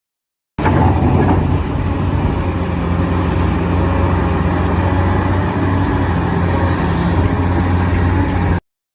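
Radio-controlled construction machine running: a steady, loud engine-like drone with a faint high whine above it. It starts abruptly about half a second in and cuts off suddenly near the end.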